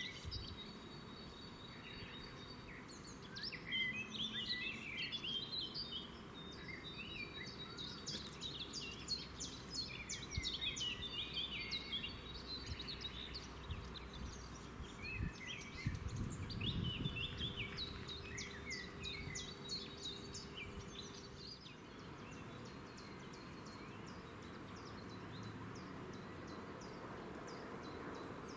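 Several songbirds singing and chirping over steady outdoor background noise, with a brief low rumble about halfway through. The song thins out to sparse high ticks near the end.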